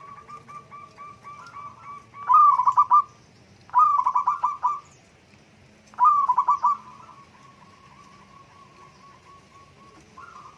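Zebra doves (perkutut) cooing: a steady run of soft, quick coo notes, broken by three louder bursts of rapid trilled coos about two, four and six seconds in.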